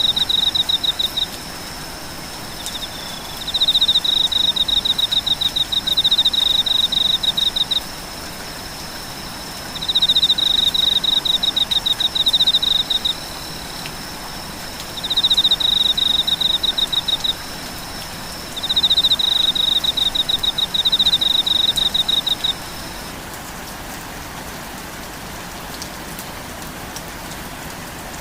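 Steady rain falling, with a loud, high-pitched, fast-pulsed trill repeating in five bursts of two to four seconds each. A faint, steady, high whine runs underneath and stops about two-thirds of the way through.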